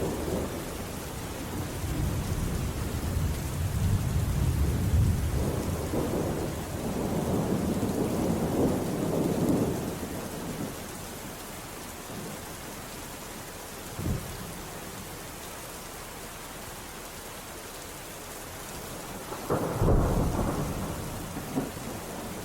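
Steady rain hissing with thunder: a long low rumble builds and fades over the first half, a short sharp crack comes about two thirds in, and another rumbling peal breaks out near the end.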